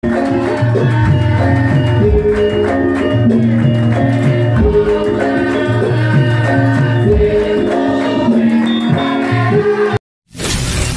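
Javanese gamelan music with hand drumming and repeating pitched phrases, cutting off abruptly about ten seconds in; after a brief silence a loud, even noise without a tune begins.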